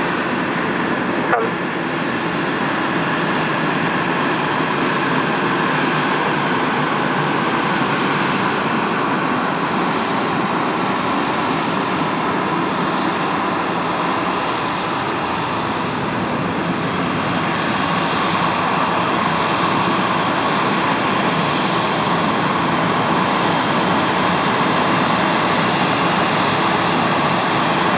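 Jet aircraft engines running steadily, with a whine over the engine noise, growing a little louder about two-thirds of the way through.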